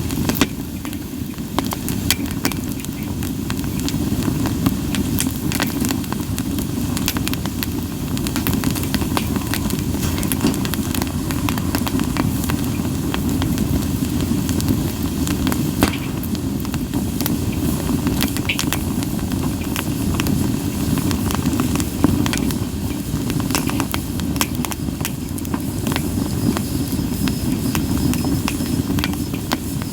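Campfire of split kunugi (sawtooth oak) logs burning, with frequent sharp crackles and pops over a steady low rumble of flame. A faint high hissing note comes in near the end.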